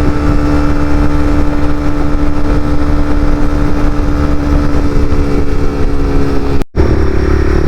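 Honda CBR300R's single-cylinder engine running at a steady speed. There is a brief cut-out about two-thirds of the way through, after which the engine note is a little higher.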